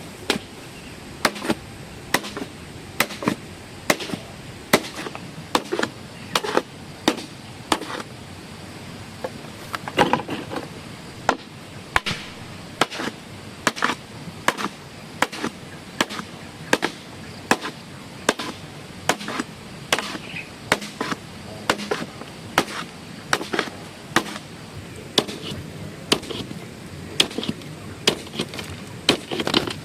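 A hand tool striking over and over in sharp, separate blows, about one to two a second at an uneven pace.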